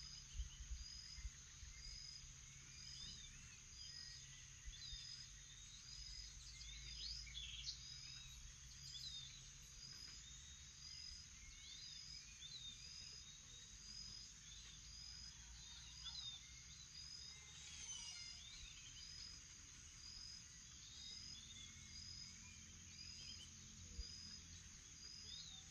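Faint morning outdoor ambience: a steady high insect drone with a short high note repeating about once a second, and scattered bird chirps and calls over a low rumble.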